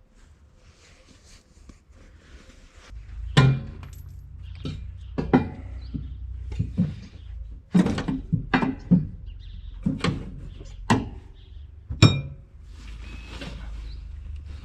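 Metal tools and parts clinking and knocking as they are handled: a quiet start, then about a dozen sharp clinks and knocks over a low rumble.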